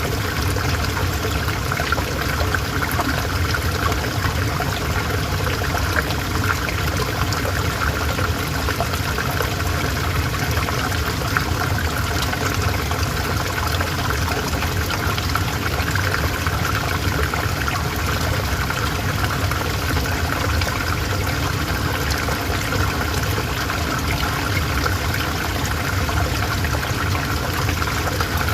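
River water flowing steadily, an even unbroken rush and trickle.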